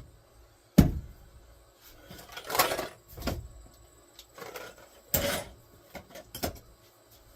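Knocks and scrapes of tools and storage being handled while a corded drill is fetched: one sharp knock about a second in, the loudest, then several shorter bumps and scraping sounds spread through the rest.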